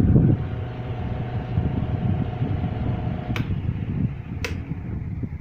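1960s Walita all-iron 30 cm electric fan running fast, a steady whoosh of air with a faint motor hum; it is not very quiet because of its high rotation speed. About three and a half seconds in, two sharp clicks come a second apart, and the hum stops at the first.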